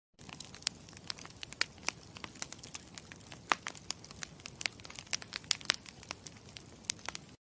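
Campfire crackling: a steady hiss with many irregular sharp pops and snaps, cutting off abruptly near the end.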